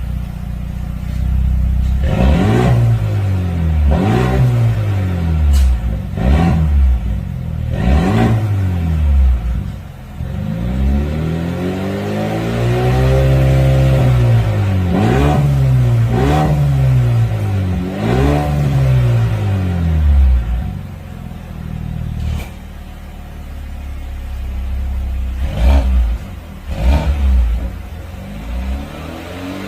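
Mercedes-AMG A35's turbocharged four-cylinder revved through an aftermarket variable-valve full exhaust with a sport mid-pipe. Quick rev blips alternate with one longer held rev and a short spell at low revs, and a few sharp pops sound as the revs drop.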